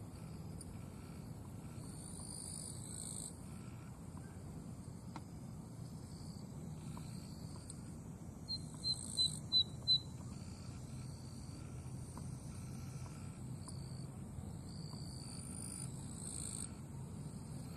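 Zitting cisticola giving one short song phrase about halfway through: five sharp, high notes in about a second and a half, each louder than the one before. Behind it, high insect-like buzzing comes and goes.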